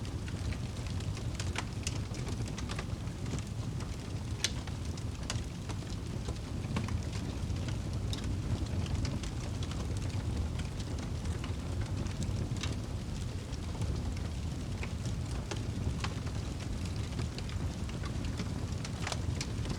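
Wood fire burning in a fireplace: a steady low roar of the flames with scattered sharp crackles and pops from the burning wood.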